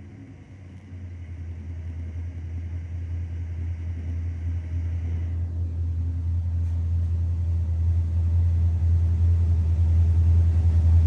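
LS V8 engine on a dyno running at a steady low speed, a deep rumble that grows steadily louder without rising in pitch.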